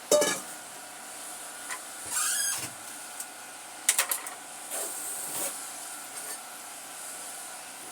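Pieces of green banana and plantain being dropped into a cooking pot: a loud knock right at the start, then a few scattered knocks and splashes over a steady hiss.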